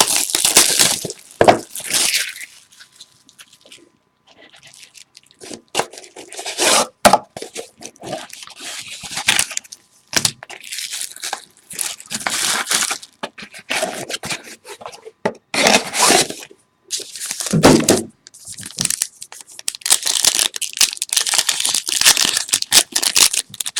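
Packaging being torn open by hand: shrink wrap and card-pack wrappers ripping and crinkling in irregular bursts as a box of trading cards and a stubborn pack inside it are opened.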